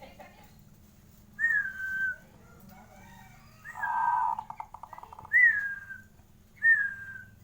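Zebra dove (perkutut) calling: four short whistled notes that slide downward, a second or two apart, with a fast rolling trill about four seconds in.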